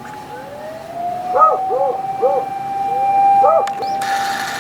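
Emergency-vehicle siren wailing: one tone that rises and then holds steady. A dog yelps several times over it in short, arched calls, and a short burst of hiss comes near the end.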